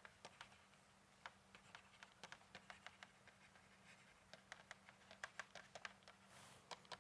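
Near silence, with faint, irregular ticks and scratches of a pen or stylus writing, and a faint steady hum underneath.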